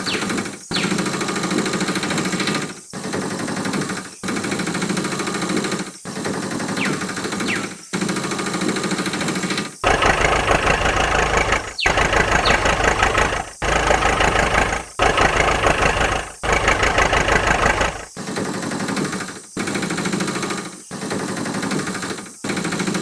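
A motor running with a fast rattling tick. It breaks off in short gaps about every one and a half seconds, and is louder and deeper for several seconds in the middle.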